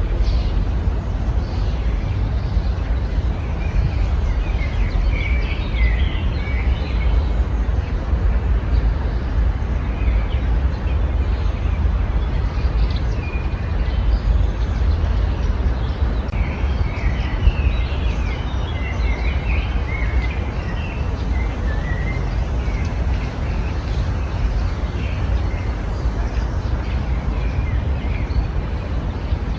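Small birds chirping and twittering in scattered bursts over a steady low rumble. The twittering is busiest about a fifth of the way in and again a little past the middle.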